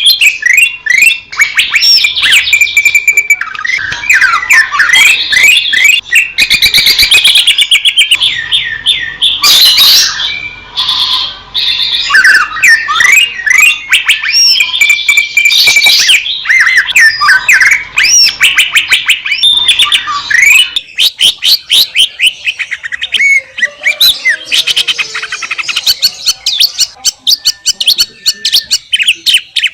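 Green leafbird (cucak ijo) singing a fast, varied song of chirps, slurred whistles and rapid trills, almost without pause.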